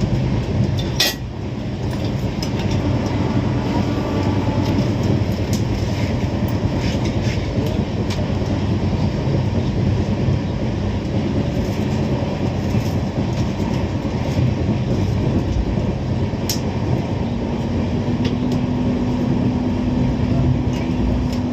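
Moving train running on the track: a steady, dense rumble with scattered sharp clicks. A steady hum joins about seventeen seconds in.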